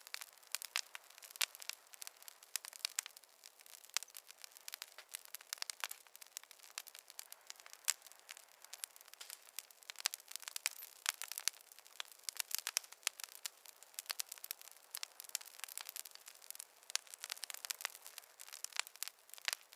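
Wood fire crackling: a steady stream of irregular sharp pops and snaps over a faint hiss, with no low rumble.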